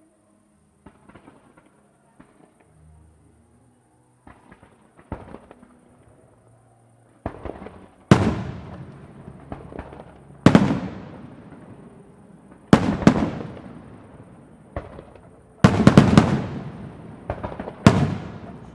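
Fireworks display: a few faint pops and crackles at first. Then, from about seven seconds in, comes a run of loud shell bursts, some in quick pairs, each bang trailing off in a long rolling echo.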